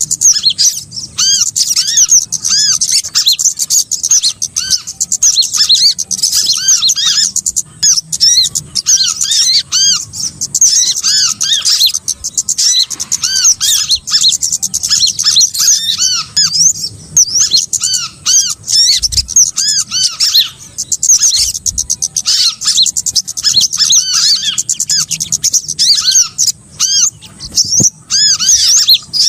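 Bird-lure recording of a flock of small songbirds calling together: a dense, unbroken stream of short, high, arched chirps and twitters, many birds overlapping at once. It is played as a call to draw small birds in.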